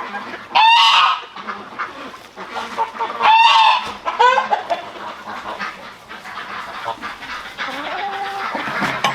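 Geese honking loudly three times among farm poultry, over a steady background of chickens clucking.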